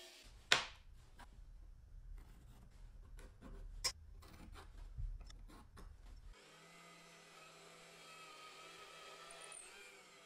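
Wood and hand tools being handled and worked on a bench: rubbing and scraping with a sharp knock about half a second in and another near four seconds. After about six seconds this gives way to a faint steady hum.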